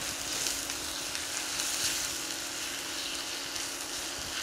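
Sliced mushrooms, onion and garlic sautéing in oil in a stainless steel pan, sizzling steadily.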